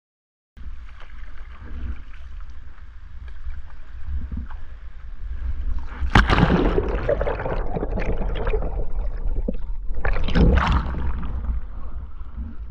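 Water splashing and churning around a kayak as the paddler capsizes and rolls back upright, with two big splashes about six and ten seconds in, over a steady low rumble.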